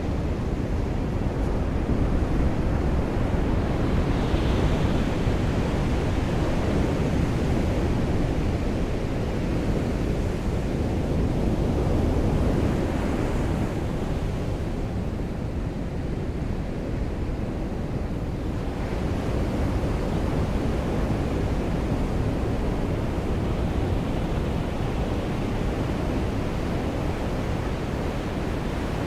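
Ocean surf washing ashore in a steady low rush, swelling up a few times.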